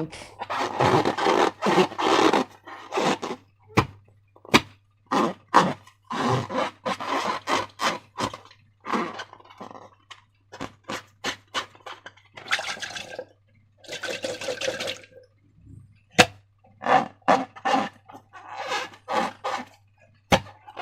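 Slime being squeezed and worked by hand: an irregular run of squelches, crackles and sharp little pops, some short and some drawn out over about a second.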